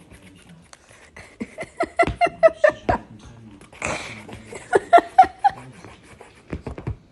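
A pet animal giving quick runs of short, sharp calls, two runs a few seconds apart.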